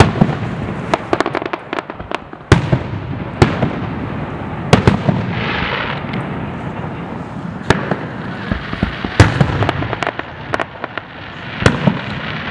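Fireworks display: aerial shells bursting with sharp bangs, some in quick crackling runs, over a continuous rumble, with a hissing crackle about five to six seconds in.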